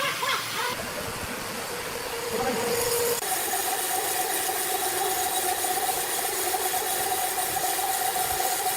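Sawmill machinery running with a steady hum over noise. The sound changes abruptly about three seconds in to a steadier, higher-pitched hum.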